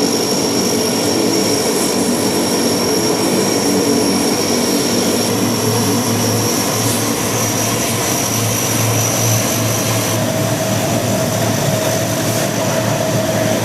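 MV-22B Osprey tiltrotor running steadily, its turboshaft engines and proprotors making a dense continuous noise with a high steady whine. About halfway through, a low pulsing beat from the rotors comes in.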